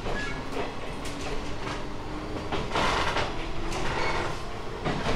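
Interior sound of a 719 series electric train car: a steady low hum with a faint tone that rises slightly, scattered knocks and clunks, and a brief rushing noise about three seconds in.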